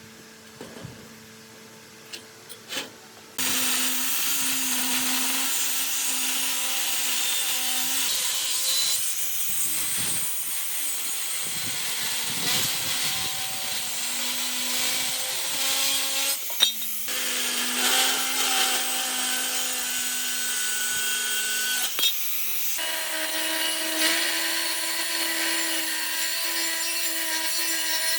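A few light clicks, then about three seconds in a power tool starts and runs under load with a harsh, steady noise, its hum shifting in pitch several times as the load changes.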